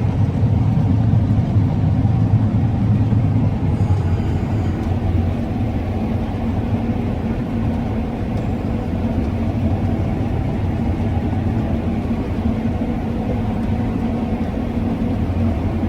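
Combine harvester running steadily, a continuous low engine drone with a steady hum.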